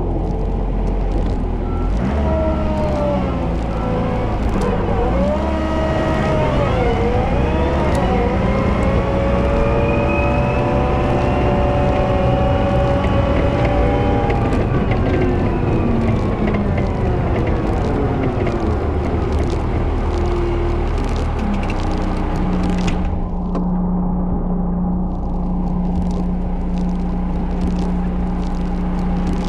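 Volvo L110 wheel loader's diesel engine running under load while plowing snow. Its pitch rises and falls through the first half, then settles into a steady low drone about two-thirds of the way in, with scattered clicks over it.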